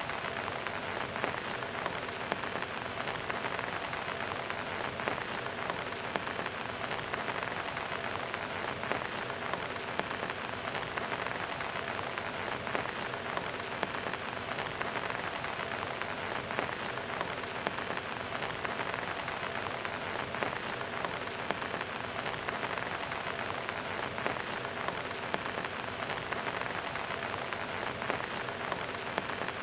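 Heavy rain falling steadily, a dense even hiss of drops laced with many small ticks of individual splashes.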